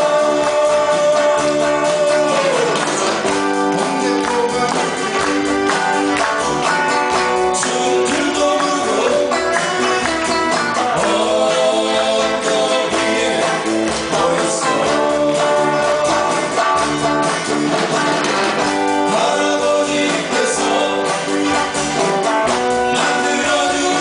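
Live amateur band playing a 1970s–80s-style Korean pop song, with a sung melody over the band.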